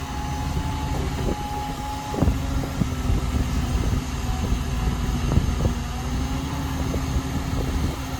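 Excavator loading soil into a dump truck: heavy diesel engines running steadily, with knocks and thuds of soil and the bucket landing in the truck's bed, the loudest about two seconds in.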